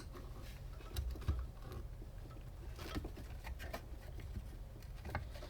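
Scattered small clicks and taps of hands and a tool handling the metal parts of a vintage Vornado fan during disassembly, with a sharp click at the start, over a low steady hum.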